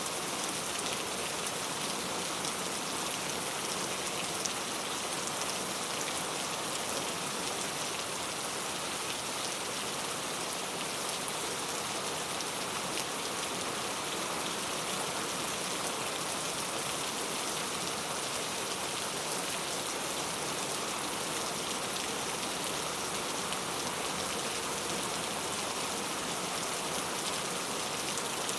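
Heavy rain falling steadily on hard street surfaces, a dense even hiss of drops with fine ticks of individual drops.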